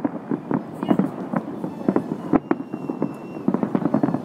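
Aerial fireworks display: a rapid, irregular run of bangs, several a second, from bursting shells.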